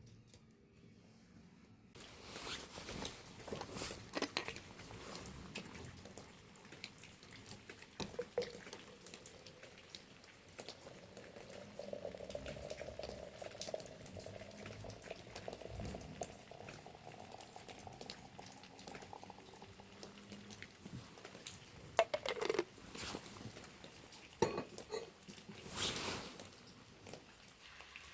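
Water pouring and dripping, with light clinks and clatters of dishes; a faint tone rises slowly through the middle, as when a vessel fills, and a few louder clinks come near the end.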